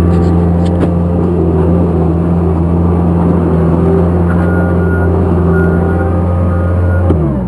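A large engine running loud and steady at a constant speed, then slowing and shutting down near the end.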